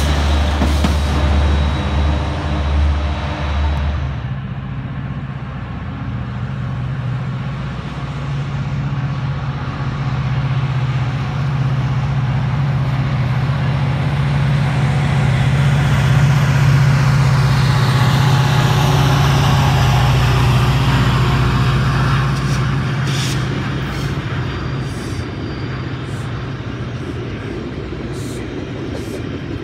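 Metrolink diesel commuter trains passing: a locomotive rumbles close by at first. Then another train's diesel locomotive runs past on a farther track with a steady engine drone that grows loudest about halfway through and fades. Near the end its bilevel coaches' wheels click over rail joints.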